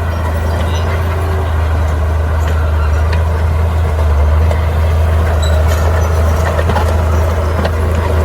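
Bulldozer diesel engine running with a steady low drone, with scattered light clicks and knocks over it.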